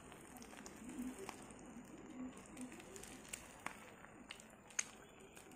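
Egg-dipped bread slices frying in a nonstick pan, a faint sizzle with scattered sharp pops and crackles; the loudest pop comes near the end.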